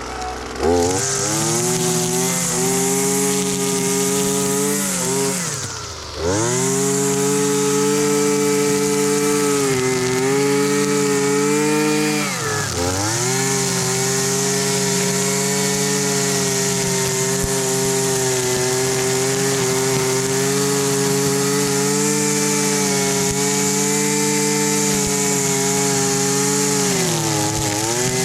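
Husqvarna 326LD string trimmer's small two-stroke engine catching about a second in and running at high speed. It bogs down almost to a stop around six seconds, then picks back up. It sags briefly a few more times.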